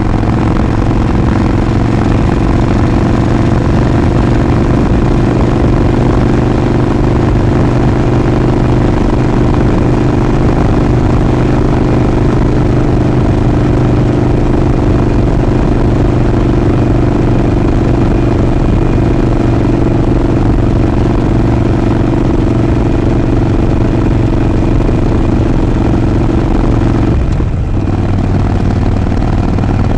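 Harley-Davidson Sportster 48's air-cooled V-twin running steadily under way. About 27 seconds in, the engine note briefly drops and shifts, then settles again.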